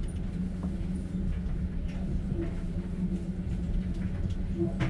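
Steady low rumble of a moving passenger train heard from inside an open-plan sleeper carriage, with a few faint knocks and a short click near the end.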